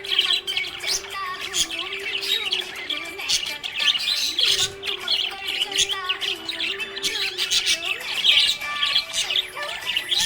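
Several pet budgerigars chattering: a dense, continuous stream of rapid high chirps and warbles.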